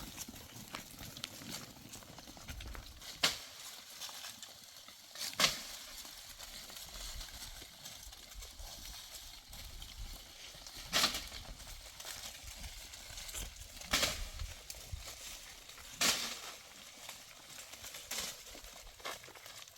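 A series of sharp knocks at irregular intervals, about seven of them a few seconds apart, with lighter ticks in between.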